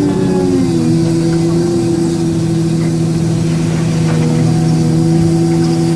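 Heavy diesel engine of a large mining machine running. Its pitch drops during the first second, then holds steady.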